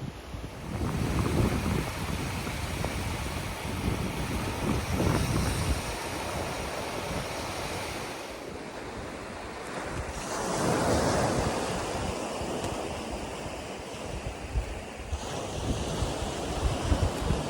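Sea waves breaking and washing on the shore, swelling in surges about a second, five seconds and ten seconds in, with wind buffeting the microphone.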